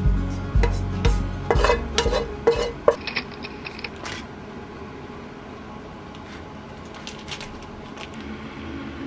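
Kitchen utensils clinking and scraping against cookware, with light scattered clicks. Background music plays for about the first three seconds and then stops, leaving the softer clatter.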